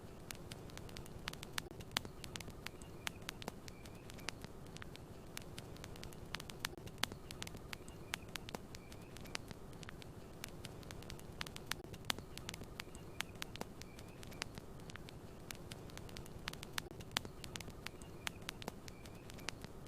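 Campfire crackling: frequent irregular sharp pops and snaps over a steady low rushing noise.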